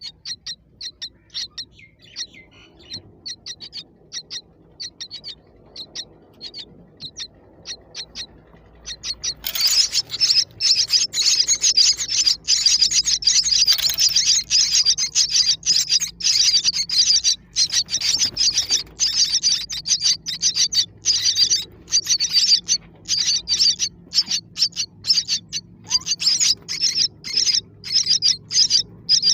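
Baby birds cheeping: single high cheeps at first, then about nine seconds in a dense, loud chorus of rapid high cheeps starts and keeps going.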